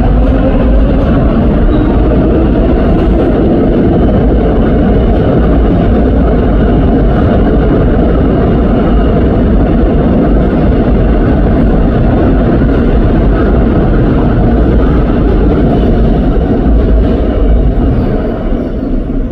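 Seoul Subway Line 4 electric train pulling out of the station, with a loud, steady rumble of wheels and running gear as it passes. The sound begins to die away near the end.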